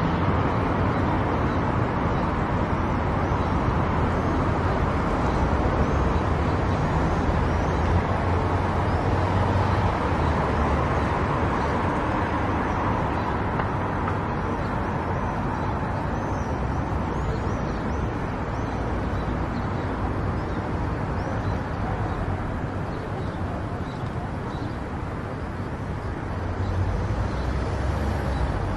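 A car driving on a highway: steady road and tyre noise with engine hum. It eases off slightly a little before the end and picks up again near the end.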